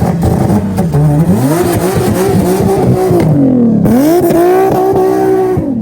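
Car engine revved hard twice, each time climbing and then held at a steady high pitch, with a dip between; the sound cuts off suddenly near the end.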